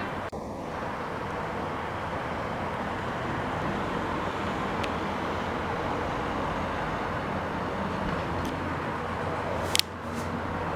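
Steady outdoor background noise of the kind traffic makes, with one sharp click near the end.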